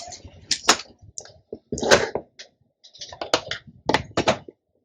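Irregular clicks and light knocks of hands handling the amplifier board, wires and test leads on a workbench.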